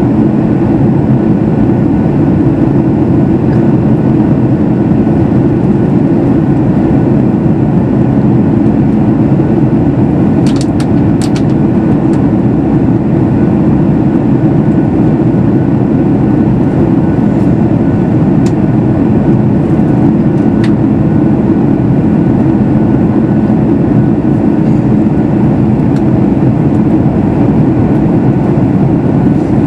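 Cabin noise inside a Boeing 737 MAX 8 in flight: a steady, loud rush of airflow over the fuselage with the low hum of its CFM LEAP-1B engines. A few faint clicks come about ten to eleven seconds in.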